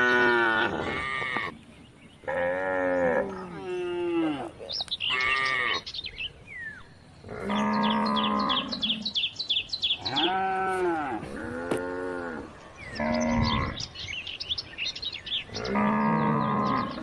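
Cattle mooing: a string of about nine calls of varying length, some held on one pitch and some rising and falling, the longest lasting over two seconds. Birds chirp in quick series between and over the calls.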